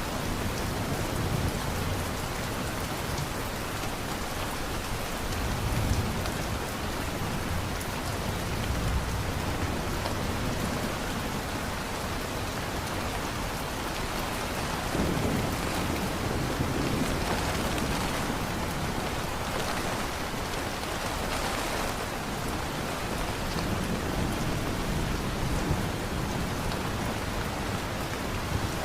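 Steady heavy rain pouring onto surfaces, with low thunder rumbling and swelling several times.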